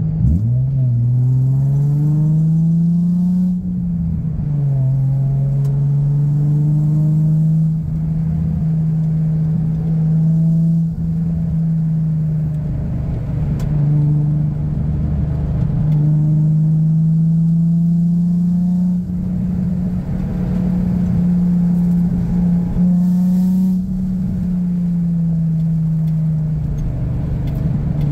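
The 2004 Nissan 350Z's VQ35DE V6, running through an aftermarket exhaust (Motordyne ART pipes, Res Y-pipe, Z1 muffler), heard from inside the cabin while the car is driven on a winding road. The revs climb over the first few seconds, drop sharply about four seconds in, then hold fairly steady with slow rises and falls in pitch as the throttle changes.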